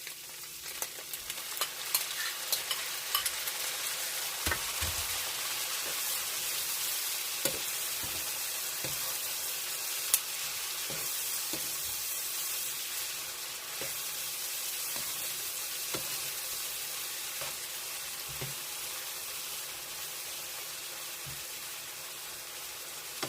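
Pork and squash stir-fry with tomato sizzling steadily in a hot pan while it is stirred, a spatula knocking against the pan every second or so.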